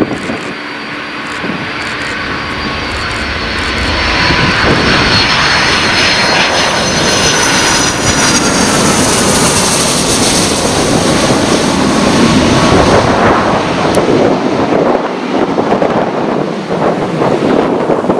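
Jet engines of a Boeing 757-200 running at high power. A whining fan tone over a broad roar grows louder a few seconds in, then gives way to a rougher, crackling rumble near the end.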